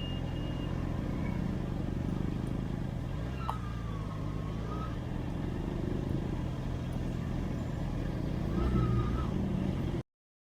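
Vehicle engine and road noise running steadily, with two brief wavering higher tones over it, and the sound cuts off suddenly near the end.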